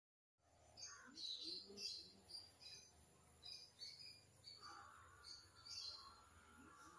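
Faint songbirds chirping: many short, high notes repeated in quick runs. From about halfway a thin steady tone joins them.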